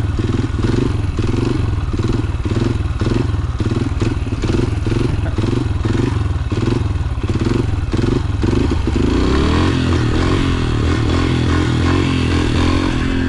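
Yamaha TT-R125's single-cylinder four-stroke engine lugging at low revs, surging and pulling in a rhythmic pulse about twice a second, then running smoother and steadier from about nine seconds in as the bike is held on the throttle.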